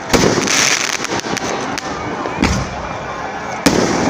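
Fireworks going off: three loud bangs, one just after the start, one about midway and one near the end, over a rapid crackle of smaller firecrackers and a brief hiss about half a second in.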